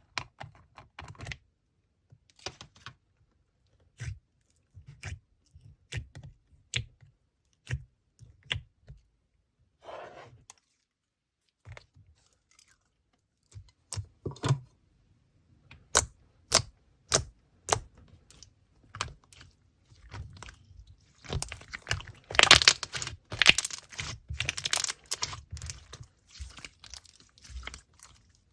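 Slime being pressed and worked by hand, giving separate sharp clicking pops. About two-thirds of the way in they turn into a louder, denser run of crackling clicks.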